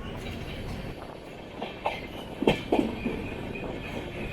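Express train coach rolling along the rails with a steady rumble and a faint, broken high whine from the wheels. About two and a half seconds in, the wheels give a few sharp knocks over the track.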